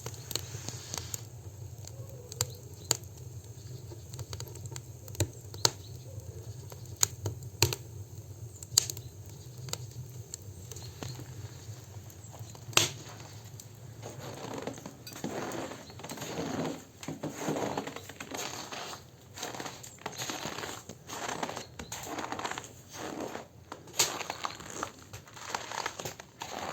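Campfire crackling with sharp, irregular pops. About halfway through, a rhythmic crunching in dry, frozen snow takes over, a crunch or two each second.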